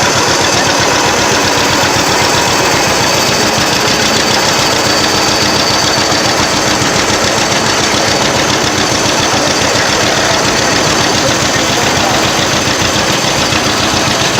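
Antique tractor engine running steadily close by, its even firing pulses loud and continuous.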